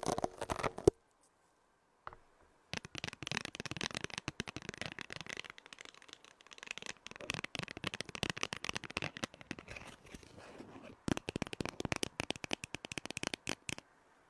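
Stones rubbed and clicked against each other close to the microphone: a dense run of small clicks and scrapes that breaks off about a second in and starts again a couple of seconds later.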